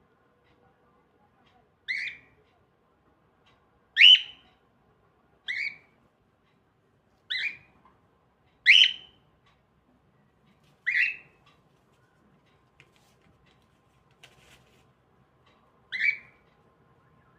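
Cockatiel giving short, repeated calls, seven in all, one to two seconds apart, with a longer pause before the last.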